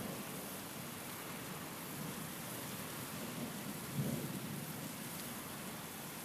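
Steady rain with a low rumble of thunder that builds about three seconds in, cracks sharply at about four seconds, and fades away.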